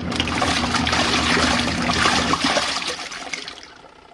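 Rinse water rushing out of a small RV washing machine as it drains at the end of the rinse, tapering off near the end.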